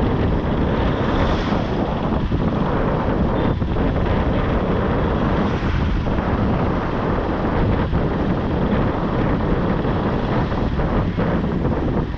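Wind rushing over the microphone of a moving motorbike, over steady road and traffic noise.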